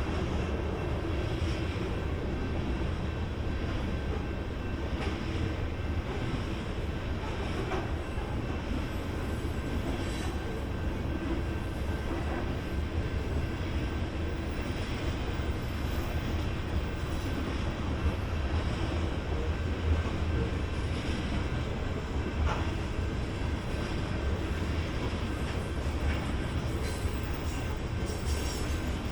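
BNSF freight train rolling past on the track, a steady rumble of the cars with a few faint clicks of wheels over the rail.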